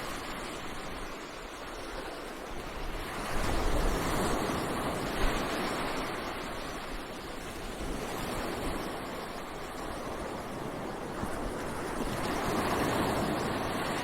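Ocean surf washing onto a beach: a continuous rush of breaking waves that swells louder a few seconds in and again near the end.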